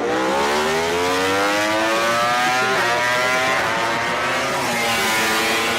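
MotoGP four-cylinder prototype race bike engine accelerating hard, its note climbing steadily and dropping briefly at upshifts nearly three seconds in and again near the end.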